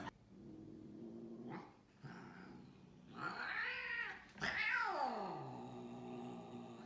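A cat yowling: a few low drawn-out calls, then one that rises and falls, then a long call that slides down in pitch.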